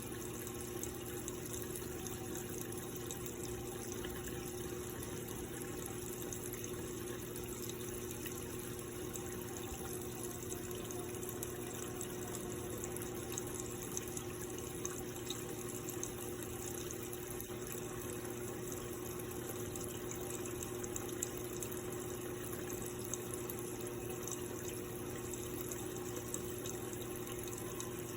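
Electrolux LPE16 washing machine filling with water, a steady rush of water running into the tub with a steady low hum underneath.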